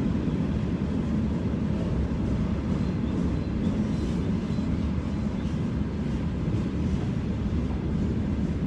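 Freight train rolling past over a railway bridge, a steady rumble with no let-up.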